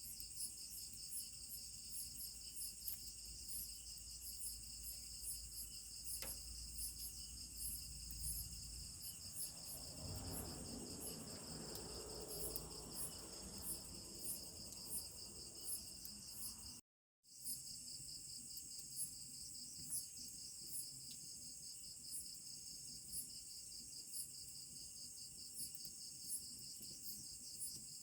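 A chorus of crickets and other insects trilling steadily at high pitch, with a regular pulsing ticking over it. The sound cuts out for an instant about seventeen seconds in.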